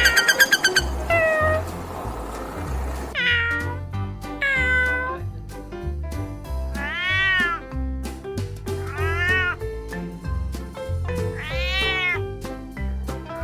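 A cat meowing repeatedly, about half a dozen drawn-out meows a couple of seconds apart, each rising then falling in pitch.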